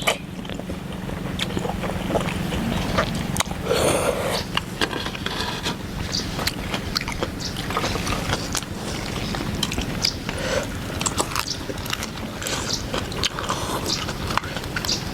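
A person eating a bowl of noodle soup: chewing and slurping, with many small clicks and scrapes of utensils.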